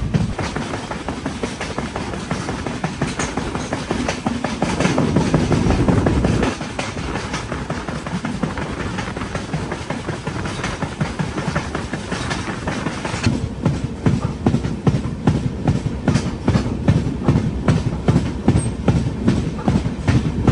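Devagiri Express passenger train running at speed, heard from the moving coach: steel wheels clacking rhythmically over rail joints with a steady rush of air. A louder low rumble cuts off suddenly about six seconds in, and the clacks stand out more sharply in the second half.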